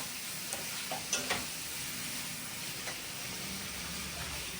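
Chicken pieces sizzling as they fry in hot oil in a pan, with a few clicks of a spoon stirring in the first second and a half.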